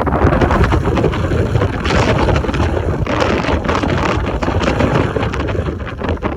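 Wind buffeting the microphone in irregular gusts, a loud low rush of noise ahead of a typhoon.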